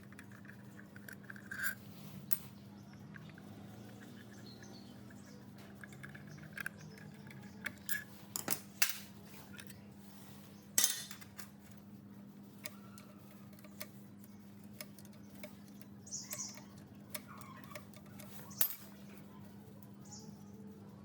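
Scattered light metallic clinks and taps of machine parts being handled, the loudest about 11 seconds in, over a steady low hum, with a few short high squeaks near the end.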